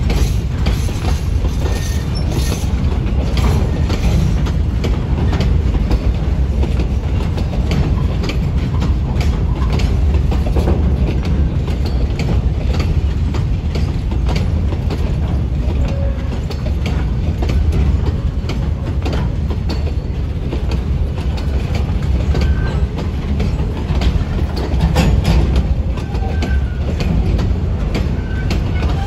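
Container flat wagons of a freight train rolling past close by: a steady low rumble of the wagons, with their wheels clicking over the rail joints throughout.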